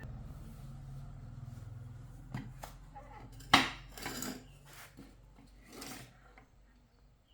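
A low buzz for the first two seconds, then handling noises: a sharp knock about three and a half seconds in and a few short scraping, rubbing sounds.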